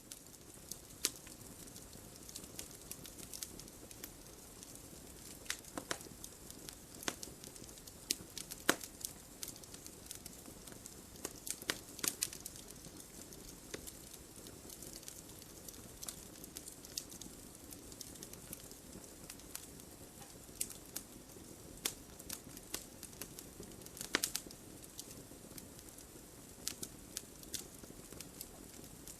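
Wood logs burning in a fireplace, crackling: irregular sharp pops and snaps over a soft steady hiss of the flames, the loudest pops about nine, twelve and twenty-four seconds in.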